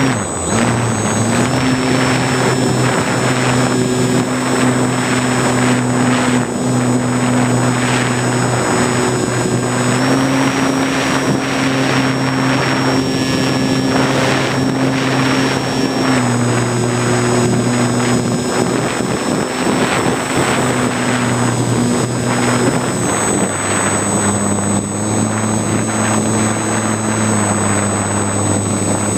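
Model airplane's motor and propeller running steadily under a loud rush of wind on the onboard microphone. The motor's pitch steps up and down a few times, with a thin high whine above it.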